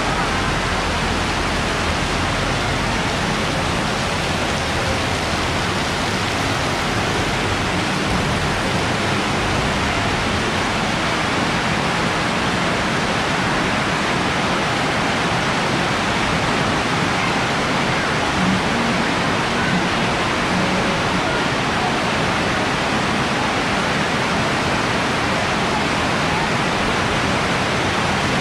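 Heavy rain pouring down on the market roofs and wet pavement: a steady, dense hiss that keeps an even level throughout.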